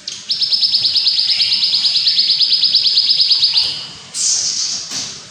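Songbird giving a fast, even trill of repeated notes, about ten a second, for some three seconds, then a shorter, harsher call about four seconds in.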